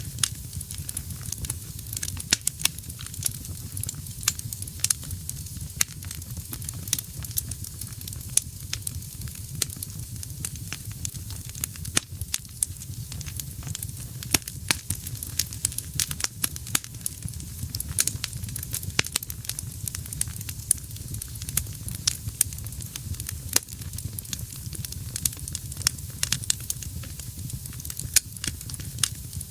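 Wood fire burning in a fireplace: dense, irregular crackling and snapping pops over a steady low rumble of the flames.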